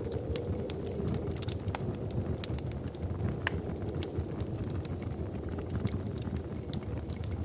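Wood fire crackling in a fireplace: a steady low rumble of flame with frequent sharp, irregular pops and snaps.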